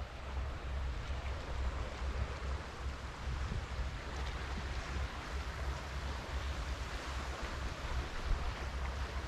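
Strong sea breeze buffeting the microphone: a low, fluctuating rumble under a steady rush of air.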